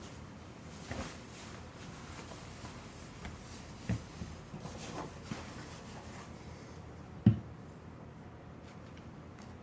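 Shoes scuffing and shifting on a floor, with a few soft thumps and one sharper knock a little after seven seconds.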